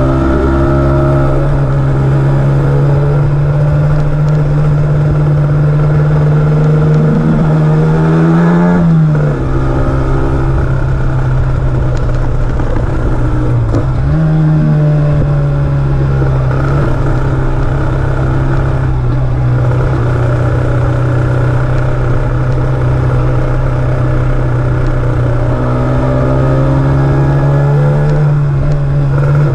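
Honda NSR125's two-stroke single-cylinder engine running at steady, moderate revs under way, heard from on board. The revs climb a little about eight seconds in, dip briefly, pick up again a few seconds later and rise slightly near the end.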